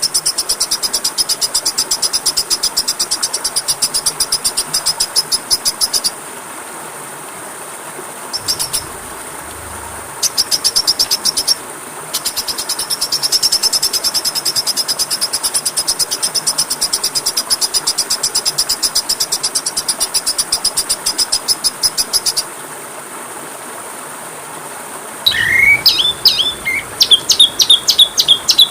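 Recorded songbird song: long runs of a fast, high-pitched rattling trill, broken by a few short pauses. Near the end it gives way to a varied song of louder, separate whistled notes.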